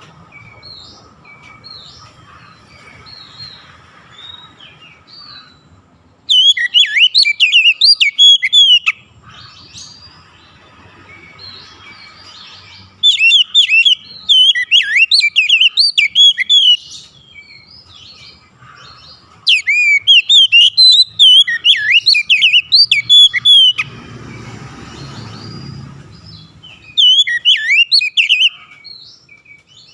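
Oriental magpie-robin singing: four loud bursts of rapid, varied whistled notes, each a few seconds long, with quiet pauses between them.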